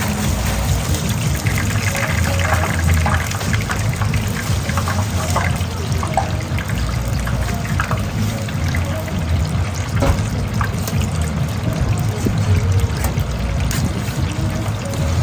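Food truck kitchen at work: a steady low hum with scattered clinks, taps and rustles of utensils and food handling over a running, liquid-like noise.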